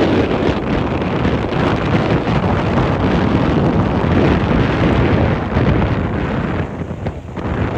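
Wind buffeting the microphone: a loud, gusty rushing noise that eases briefly about seven seconds in.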